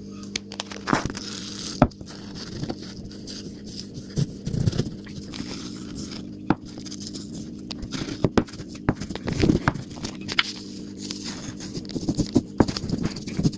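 A rolling pin rolling over stinging nettle leaves on a chopping board to break off the stinging hairs: irregular scraping and crackling with scattered clicks, over a steady low hum.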